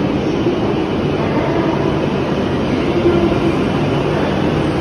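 E7 series Shinkansen pulling out of the station, its running noise of wheels and traction motors a steady rumble as the cars pass close by and gather speed.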